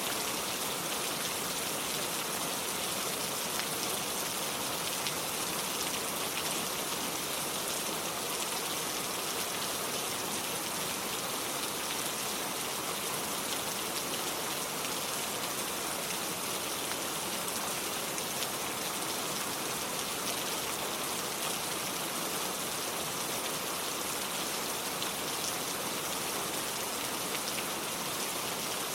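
Steady rain falling, an even hiss of many drops that does not change.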